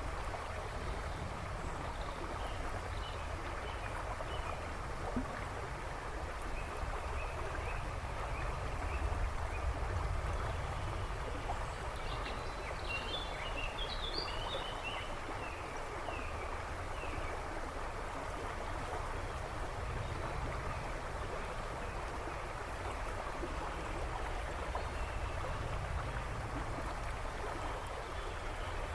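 A river babbling and rushing steadily. Birds chirp in the background, with a short cluster of calls about halfway through.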